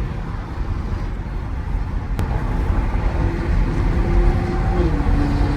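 A car engine running with a steady low rumble; its tone steps down about five seconds in.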